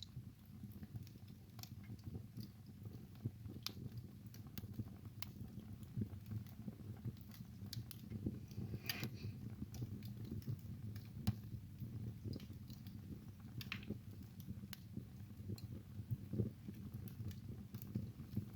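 Wood fire burning in a fireplace, with a low steady rumble under scattered sharp crackles and pops, a few louder ones now and then.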